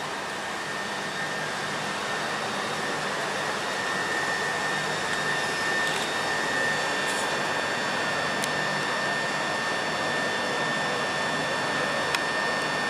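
Train running with a steady rushing noise and a high, steady whine, slowly getting louder.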